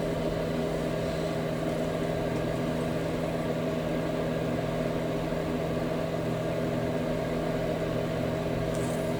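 Steady low mechanical hum made of several constant tones, unchanging throughout, with a faint tick near the end.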